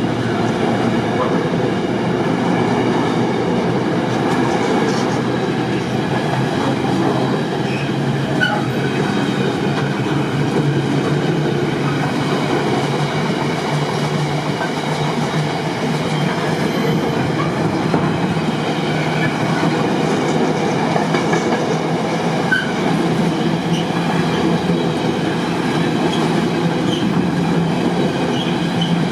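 A train rolling past on the tracks close by, a steady loud rumble of wheels on rail with some clatter over the joints.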